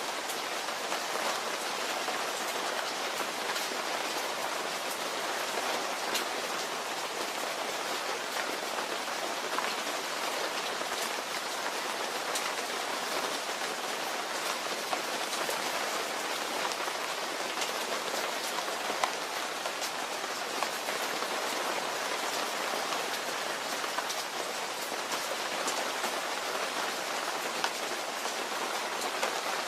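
Steady rain: a dense, even hiss of falling rain with many small drop ticks scattered through it and a slightly sharper tick here and there.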